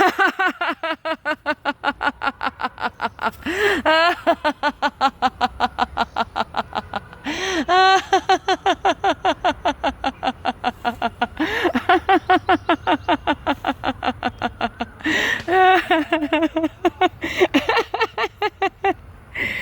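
Hearty, deliberate belly laughter on the exhale in a laughter-yoga exercise: long runs of fast, rhythmic 'ha-ha-ha' pulses, about seven a second, broken by a quick breath every few seconds.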